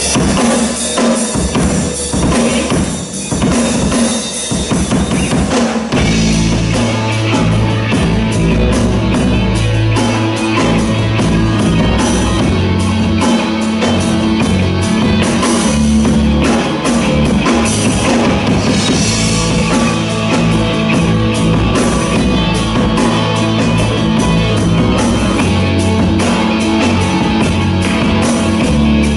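Live rock band playing through the PA in a hall: drum kit from the start, with a bass line coming in about six seconds in and guitar over it.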